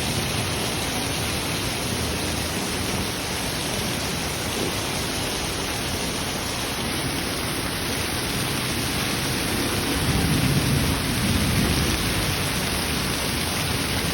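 Heavy rain pouring steadily in an even hiss, with a louder low rumble swelling for a couple of seconds about ten seconds in.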